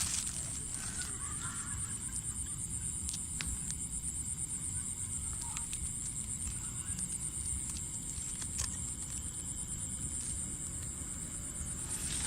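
A steady high-pitched pulsing trill of insects, over a low rumble and a few faint clicks.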